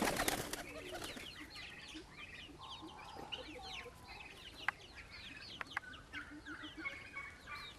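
Many birds chirping: a busy stream of short, high calls overlapping one another, with a few sharp clicks about two-thirds in and a brief loud noise at the very start.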